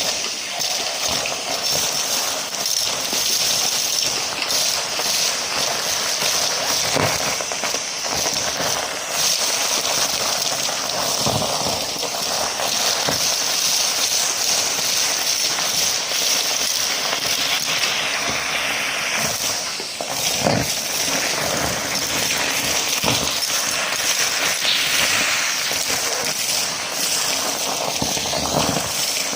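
Numatic James tub vacuum cleaner running with a steady high whine while it sucks up dry debris that crackles and rattles through the hose.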